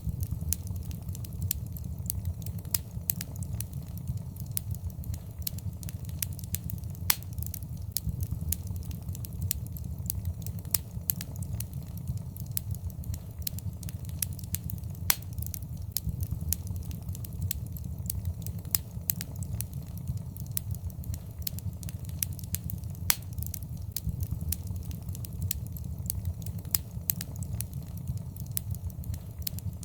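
Fireplace fire crackling, with many sharp, irregular pops and snaps over a steady low rumble.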